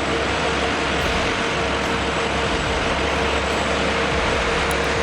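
Heavy trucks running steadily under load, a dense engine and road noise with a steady low rumble and a constant mid-pitched whine.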